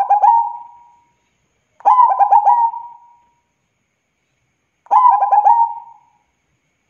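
Zebra dove (perkutut) singing: three phrases about three seconds apart, each a quick run of coos that trails off.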